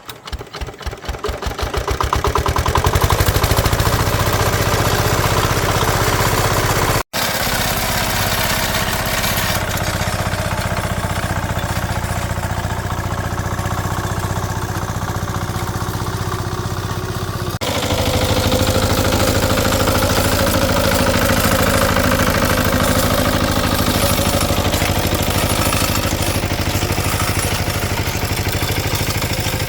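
A small engine starts up and speeds up over the first two seconds, then runs loud and steady. The sound drops out twice, very briefly.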